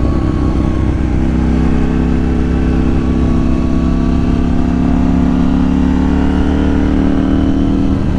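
KTM 790 Duke's parallel-twin engine, breathing through its Remus aftermarket exhaust, pulling under steady throttle, with the revs climbing slowly.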